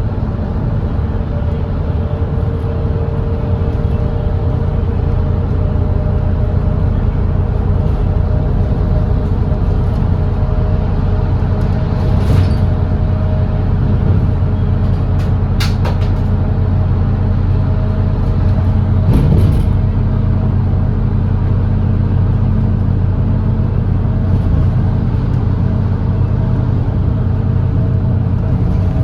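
Volvo B8RLE double-decker bus's diesel engine running steadily at cruising speed on an expressway, a constant even hum with no change in pitch. A few short clicks or knocks sound around the middle.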